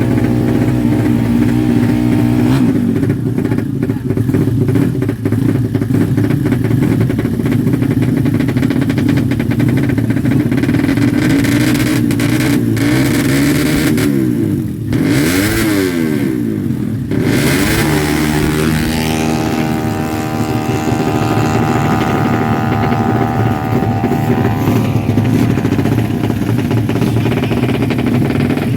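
Honda Karisma single-cylinder four-stroke motorcycle engine running steadily, with its pitch swinging down and up as it is revved around the middle.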